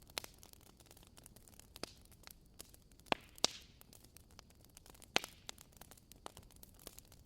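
Burning firewood crackling: irregular small pops over a soft hiss, with a few louder snaps about three and five seconds in.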